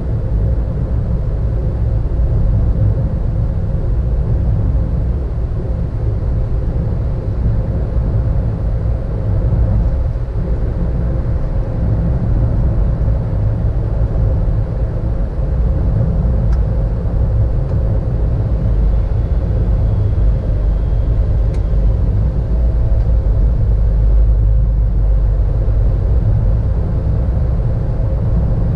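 Car driving along a road, heard from inside the cabin: steady engine and tyre road noise, strongest in the low end, with a faint steady hum.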